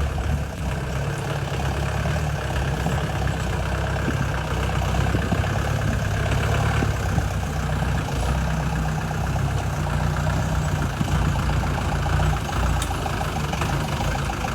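Mahindra CJ 500 DI jeep's direct-injection diesel engine running steadily at low revs, with a low, even rumble.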